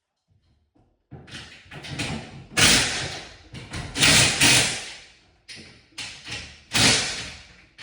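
A series of loud knocks and clatters starting about a second in, six or seven of them at irregular spacing, each trailing off over about half a second.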